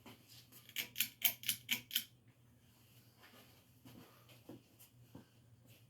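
A quick run of about six sharp clicks, roughly four a second, over the low steady hum of a c. 1987 Hunter Williamsburg low-profile ceiling fan running in low reverse; a few fainter ticks follow.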